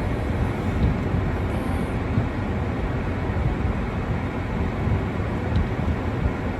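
Steady, rumbling rush of storm wind buffeting the microphone, with no distinct events.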